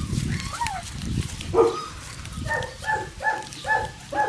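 Alusky puppy yipping: a short whine sliding down in pitch, then from about halfway in a quick, even run of high yips, about two and a half a second.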